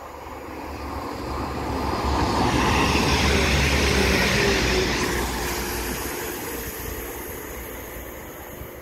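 A Northern diesel multiple unit passes close by on the near line, its wheel-on-rail rumble and engine noise building to a peak about three to four seconds in, then fading as the train runs away.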